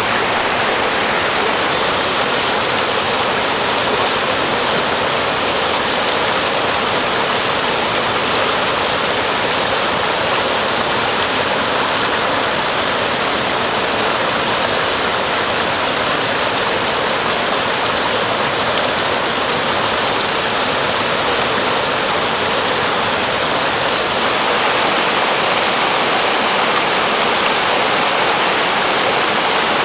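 Rushing mountain stream, water pouring over rocks in a steady loud rush.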